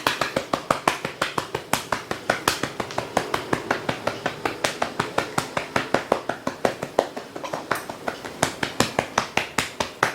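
A man imitating a toy helicopter's rotor with his mouth: a rapid, even chopping of clicks, about six a second.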